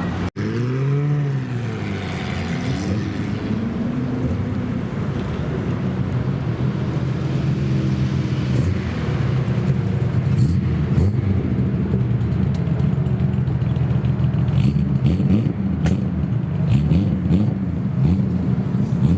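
A car engine idling with a deep, steady rumble. It is revved up and back down briefly two or three times near the start, and short sharp clicks come through in the second half.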